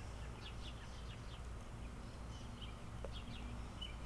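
Small birds chirping now and then in the background over a low steady outdoor rumble, with a faint click about three seconds in.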